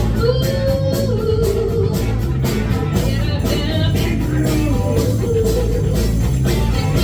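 Live rock band playing, with guitar over bass and drums keeping a steady beat and a long held melody note.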